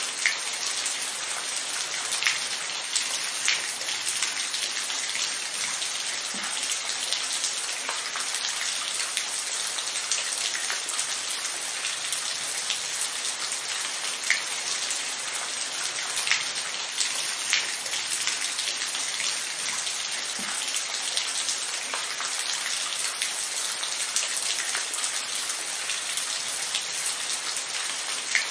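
Steady rain falling on a surface: an even hiss with scattered louder individual drop ticks.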